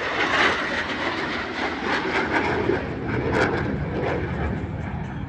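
Jet noise from an F-16 Fighting Falcon in flight: a steady rushing noise that slowly fades.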